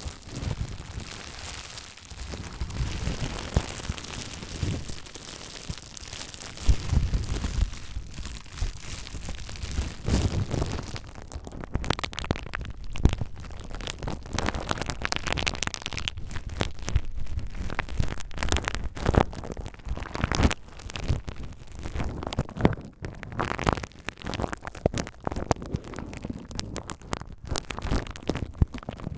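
Bubble wrap being crinkled and handled, a steady rustle at first, then from about eleven seconds in many sharp crackles and small pops.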